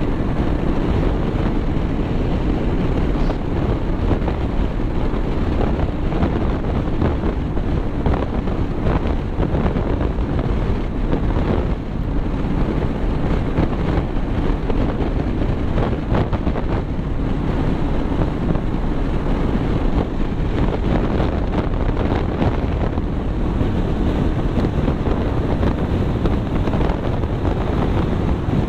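Steady wind rush buffeting the microphone over low road and vehicle noise while travelling.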